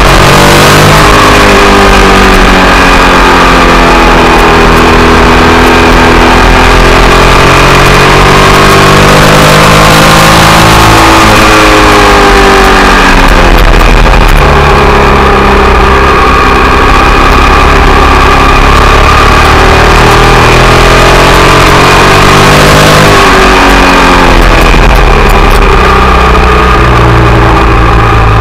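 Ducati Monster 1100 EVO's air-cooled L-twin engine heard from a camera on the bike at speed on a track. Its pitch rises and falls over several seconds at a time as the bike accelerates down straights and slows for corners, with a loud rushing noise over it.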